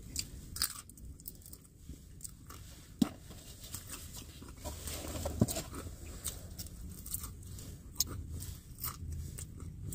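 A person chewing food close to the microphone: soft crunching and mouth clicks, with a few sharper clicks about three, five and a half, and eight seconds in.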